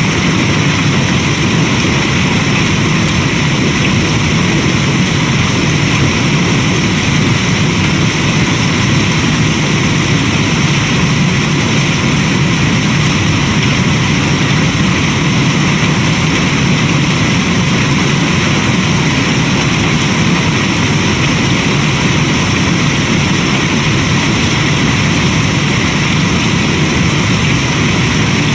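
Steady rain, a loud continuous hiss without let-up.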